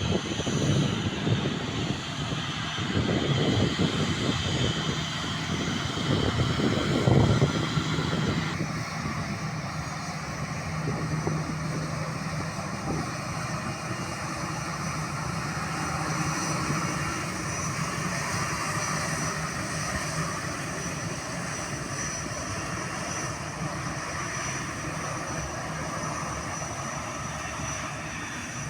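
Jet airliner's engines, loudest with a rough, rumbling noise for the first several seconds, then settling to a steadier, lower engine noise with a thin high whine.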